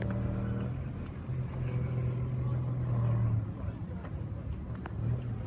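A car engine running steadily at low revs, a low even hum that fades about three and a half seconds in, with people talking in the background.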